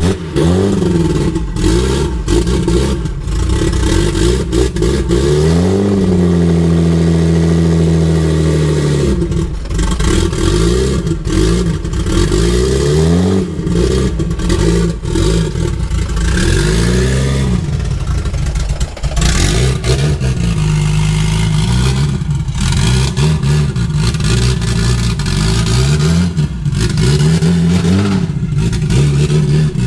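A vehicle engine running under throttle, rising and falling in pitch over and over as it revs up and drops back.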